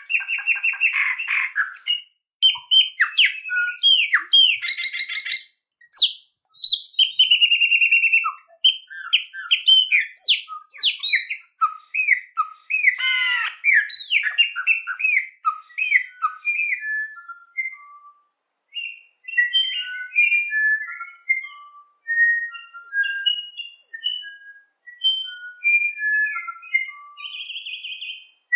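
Songbird singing a fast, varied song of whistles, trills and chirps. About halfway through it turns to short, separate whistled notes at shifting pitches.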